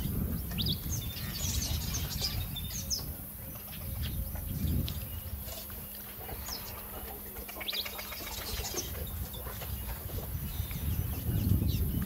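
Wild birds chirping in short, high, scattered notes over a continuous low rumble.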